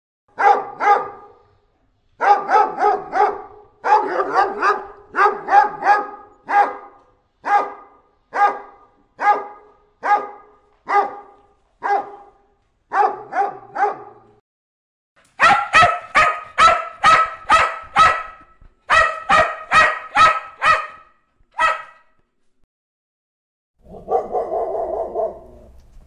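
Dogs barking in repeated short runs. After a pause about fifteen seconds in, a sharper, higher-pitched bark takes over in quick runs. Near the end comes a lower, drawn-out sound.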